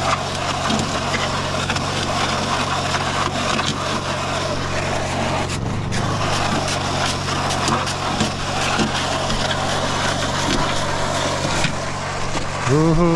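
Portable concrete mixer running: its motor hums steadily while wet concrete and gravel churn and rattle in the turning drum. A louder wavering tone starts just before the end.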